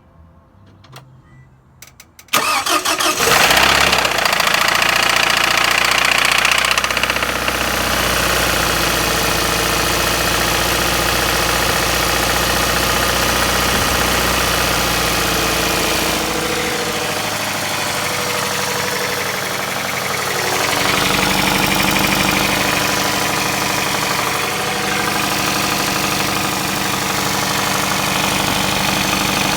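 A 2005 Scion tC's 2.4-litre four-cylinder engine starts about two seconds in, runs loudest for a few seconds, then settles to a steady idle. It is making a knocking noise at the front of the engine, which the owner suspects may be the timing chain, its tensioner, the cam phaser or broken chain guides.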